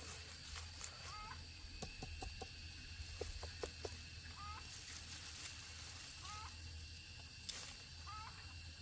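Domestic chickens clucking softly, with a cluster of short clucks around the third second and a short call recurring every couple of seconds.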